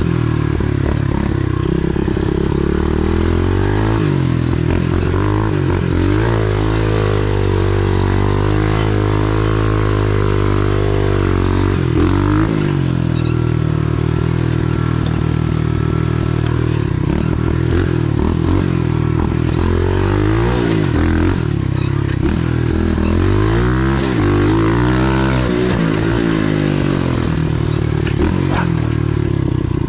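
125cc single-cylinder four-stroke pit bike engine running on a trail ride, its pitch rising and falling again and again with throttle and gear changes, over a steady hiss.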